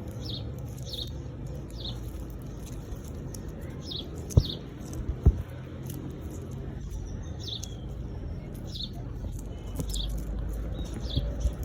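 High, short, downward peeps from a small young animal, repeating irregularly about once a second. Two sharp knocks about four and five seconds in, over a low rumble of handling noise.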